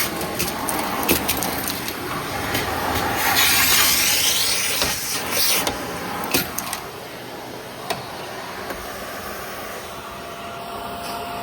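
Vacuum cleaner running and picking up scattered test debris: a steady motor noise with many sharp clicks and rattles as bits are sucked up, thinning out in the last few seconds.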